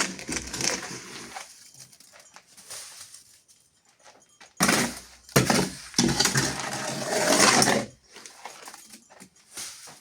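Harsh scraping of a tool through wet sand-cement mortar on the floor: a short rough burst at the start, then two short strokes about five seconds in and a longer scrape lasting about two seconds.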